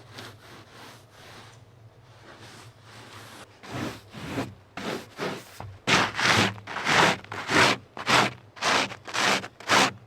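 Snow being swept off solar panels in repeated scraping strokes, faint at first and louder and steadier from about halfway, roughly two strokes a second.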